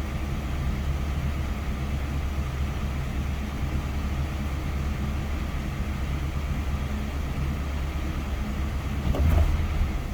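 1978 Camaro's 305 V8 idling steadily on its cold-start high idle. It is not yet warm enough to drop to low idle. There is a brief louder swell near the end.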